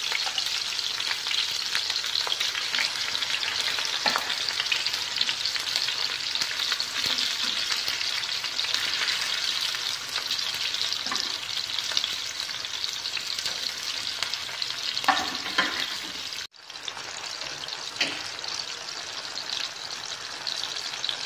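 Oil sizzling steadily under tomato slices stuffed with minced tofu as they shallow-fry in a pan, with a few light clicks and a brief break in the sound about two-thirds of the way through.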